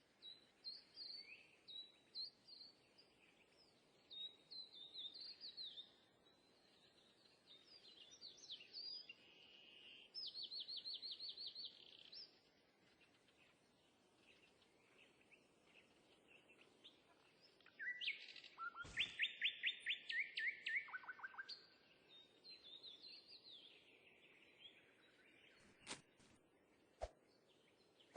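Birds chirping and singing faintly: scattered short high chirps, a rapid trill near the middle, and a louder run of quick repeated notes about two-thirds of the way through. A few faint clicks come near the end.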